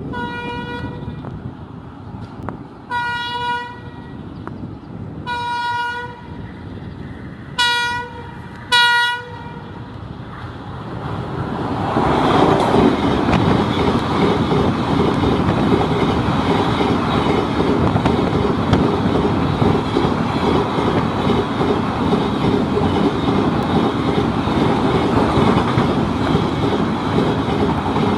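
Electric locomotive's air horn sounding five blasts, the first faint and the last two short, as the train approaches. About twelve seconds in, the train reaches the spot and runs past with a loud, steady rumble of wheels on rail.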